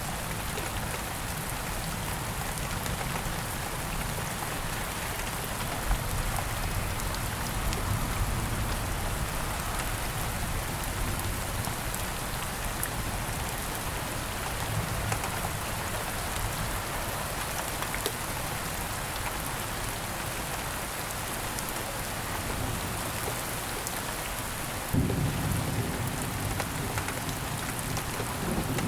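Steady rain falling, with single drops striking close by. Low thunder rumbles in the background, and a sudden low rumble of thunder starts near the end.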